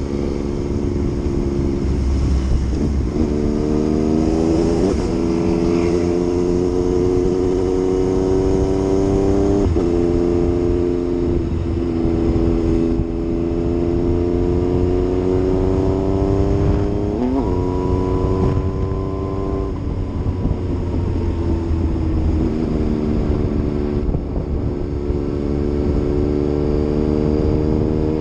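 Yamaha MT-09 inline-three engine pulling hard through the gears. Its pitch climbs steadily and drops sharply at each of about four upshifts. About two-thirds of the way through it eases off and the pitch falls slowly, then it builds again.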